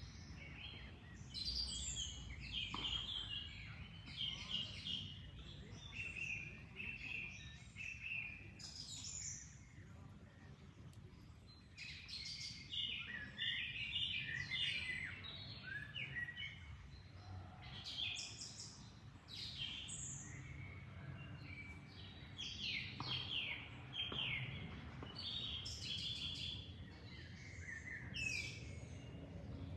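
Several songbirds chirping and singing, with quick repeated trills and short calls overlapping throughout, over a steady low background rush.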